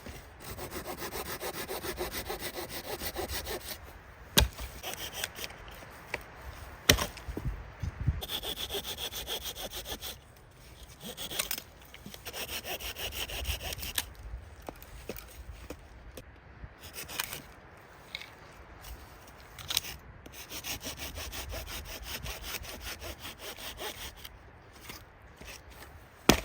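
Saw cutting through wood, in several runs of quick back-and-forth strokes separated by short pauses, with a few sharp knocks between runs.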